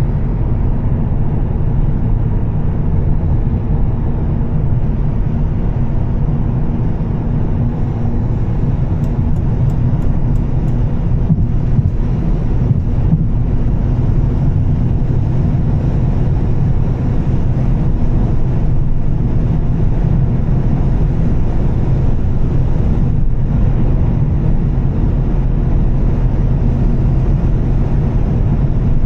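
2013 Volvo S60 T6's turbocharged straight-six with an aftermarket Heico exhaust, running steadily while cruising, mixed with the rumble of the tyres on a wet road. A few faint quick ticks come about nine seconds in.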